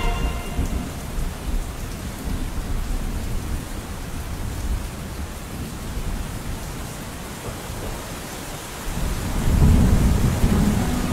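Steady rain with low rolling thunder underneath, the rumble growing louder about nine seconds in.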